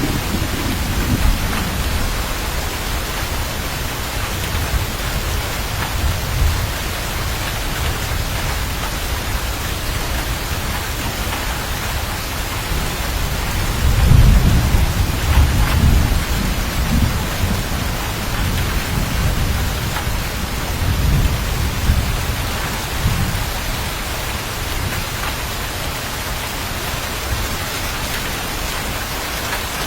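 Steady rain with thunder: a low rumble dying away just after the start, then a long rolling rumble of thunder about halfway through that swells and fades over about ten seconds.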